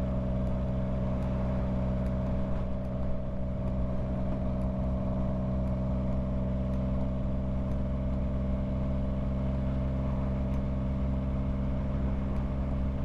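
Yamaha MT-09 inline-three motorcycle engine running at a steady, unchanging pitch.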